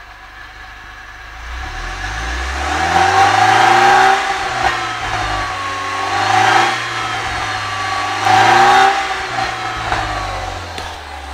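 Mercedes-Benz CLK (W208) with a modified exhaust, idling and then revved up three times, each time rising and falling back, before settling toward idle near the end.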